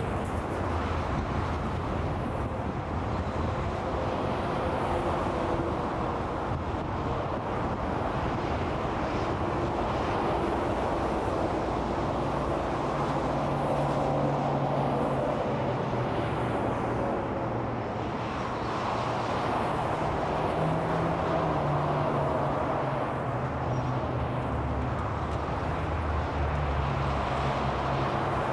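Steady interstate freeway traffic: a continuous wash of tyre and engine noise from passing vehicles, with low engine drones rising and fading as individual vehicles go by.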